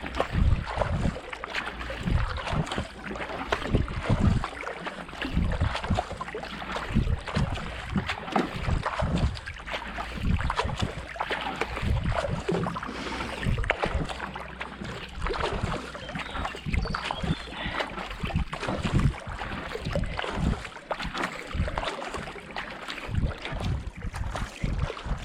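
Marathon kayak paddle strokes catching and pulling through canal water at a steady racing cadence of about 70–80 strokes a minute, with water washing along the hull. Wind buffets the microphone.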